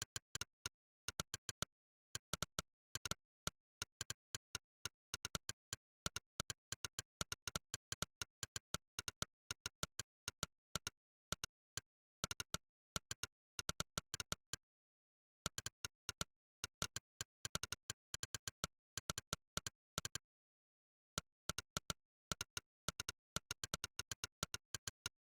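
Monkeytype's 'click' keystroke sound effect: one short, crisp click per keypress, in fast irregular runs of typing, with two brief pauses partway through. There is dead silence between the clicks, with no room noise.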